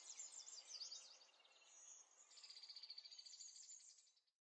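Faint, high bird chirping in quick, sliding notes, then a rapid high trill from about halfway through, which cuts off suddenly just before the end.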